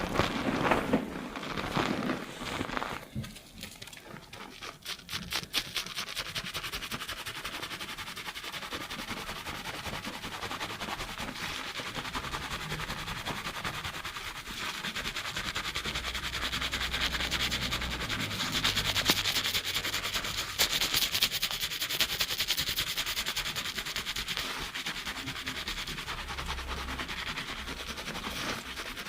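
Fingers scrubbing a lathered scalp and hair at high speed, close to a binaural microphone: fast, crackly rubbing and squelching of shampoo foam that goes on without a break.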